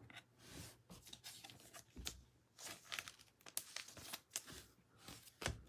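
Faint rustling, crinkling and soft ticks of trading cards and their packaging being handled and sorted.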